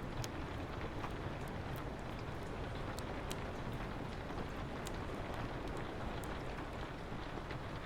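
Steady rain on a window over a low rumble, with scattered sharp crackles and ticks from a wood fire.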